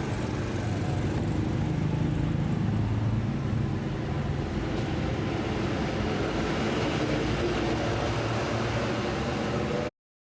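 A steady mechanical drone with a low hum in it, running evenly and then cutting off suddenly near the end.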